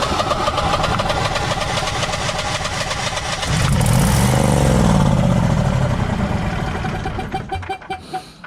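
Generac Guardian 16 kW standby generator's V-twin engine cranking and firing, catching and running louder with a wavering pitch about three and a half seconds in, then sputtering and winding down near the end. The controller is cutting the engine off rather than it running out of fuel, with a 'no RPM sense' fault.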